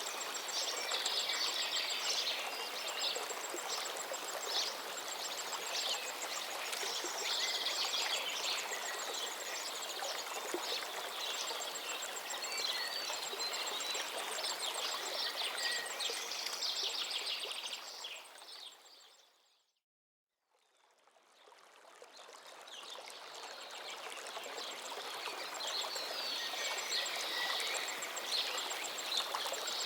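River water streaming steadily, with birds chirping and calling over it. The sound fades out to silence about two-thirds of the way through and fades back in a few seconds later.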